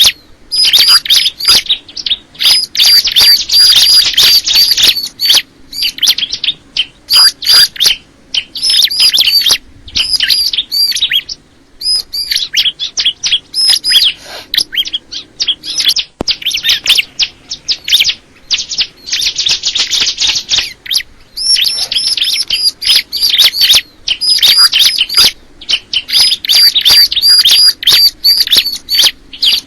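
A ciblek (bar-winged prinia) singing loudly: rapid strings of short, high, repeated notes in phrases of a second or two, broken by brief pauses.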